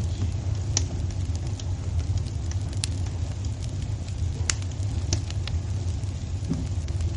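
Wood fire burning in a fireplace: a steady low rumble with irregular sharp crackles and pops. The loudest pops come about three and four and a half seconds in.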